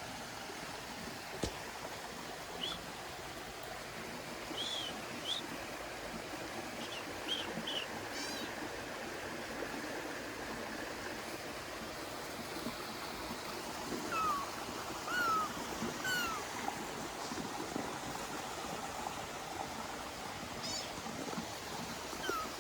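A kitten mewing, three or four short falling mews in a row past the middle, over the steady rush of a running stream. Small high chirps and trills are scattered through it.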